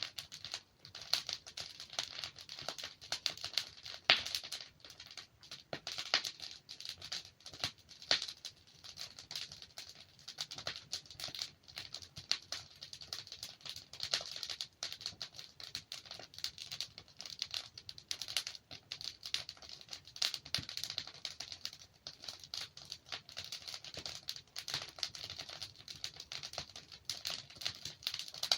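Wood fire crackling, a dense run of small snaps and ticks with occasional louder pops, the sharpest about four seconds in.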